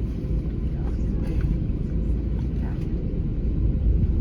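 Steady low rumble of cabin noise inside an Airbus A321neo airliner, with a faint steady hum over it and faint voices.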